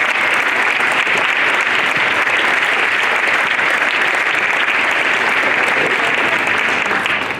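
An audience of schoolchildren and adults clapping, dense and steady, dying away near the end.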